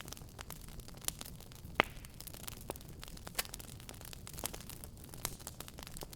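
Wood fire in a fireplace crackling: irregular sharp pops and snaps over a low, steady rumble, the loudest pop a little under two seconds in.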